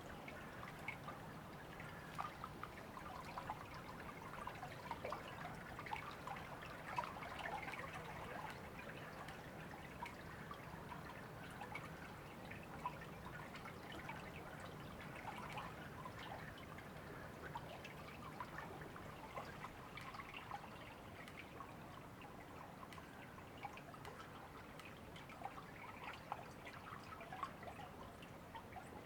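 River water trickling and babbling steadily over stones.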